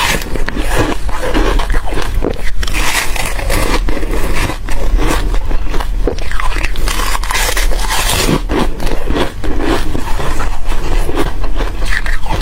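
Close-miked biting and chewing of crispy frozen foam, a dense, unbroken run of crunches and crackles.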